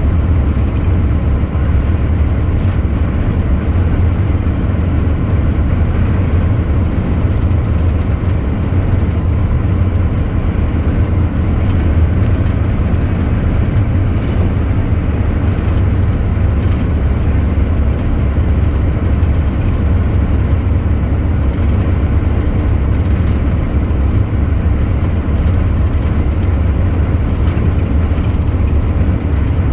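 Heavy truck on the move: a steady low engine and road rumble that holds even throughout, with no gear changes or braking heard.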